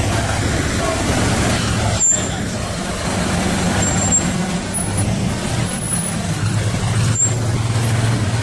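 Motor vehicle engines running in street traffic: a steady low engine hum under road noise, with a sharp click about two seconds in and another near the end.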